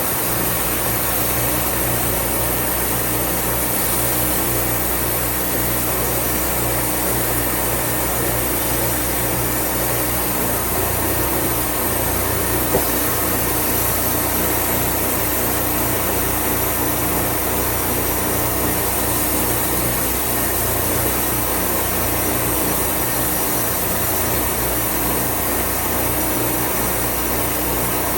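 Wood-Mizer portable band sawmill's engine running steadily, with a short tick about 13 seconds in.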